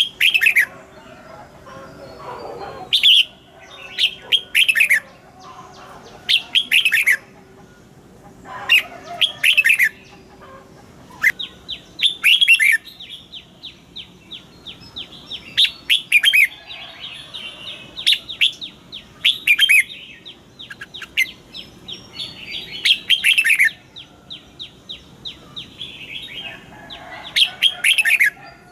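Red-whiskered bulbuls singing: loud, short whistled phrases that fall in pitch, repeated every second or two. From about the middle on, fast runs of short ticking notes fill the gaps between the phrases.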